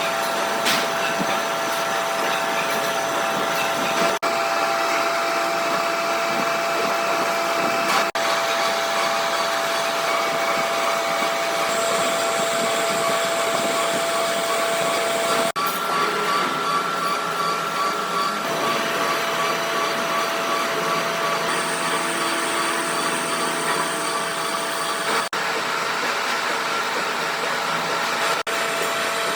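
Workshop machinery running steadily, a continuous whir with a fixed whining tone, dropping out briefly a few times.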